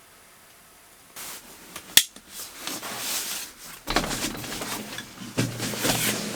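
Irregular rustling and handling noises with one sharp click about two seconds in.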